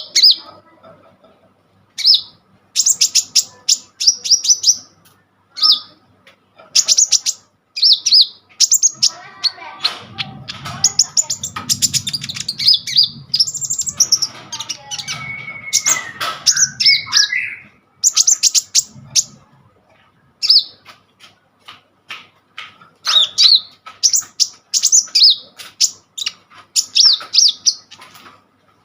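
Kolibri ninja sunbird singing in full voice: fast runs of sharp, high chirps and trills in bursts with short pauses. A low rumbling noise sits under the song in the middle.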